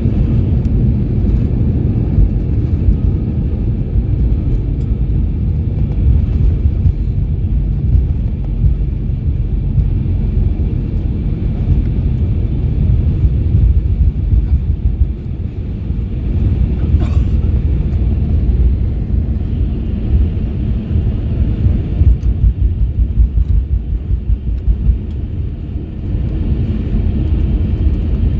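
Airbus A321-200 heard from inside the passenger cabin: a loud, steady low rumble of engine and airframe noise.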